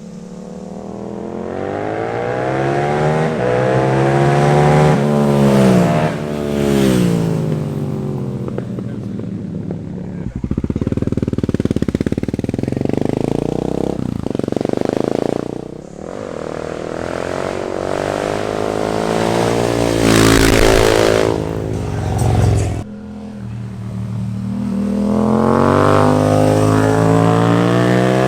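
Yamaha MT-07 (FZ-07) parallel-twin engines with aftermarket exhausts, revving and accelerating, the pitch climbing and dropping again and again as they work through the gears. The sound changes abruptly three times, as from one ride segment to the next.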